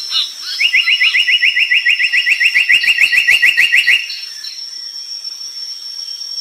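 Brown tali pocong bird singing a fast trill of quick repeated notes, about ten a second, starting about half a second in and stopping about four seconds in. A steady high-pitched whine runs underneath throughout.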